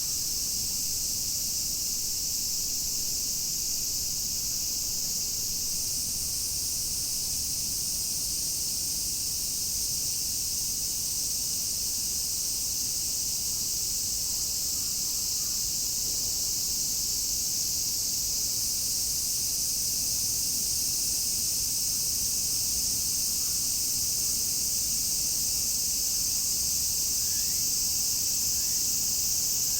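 Chorus of cicadas, a steady high shrill drone with many insects calling together, one high tone dropping out for stretches and returning.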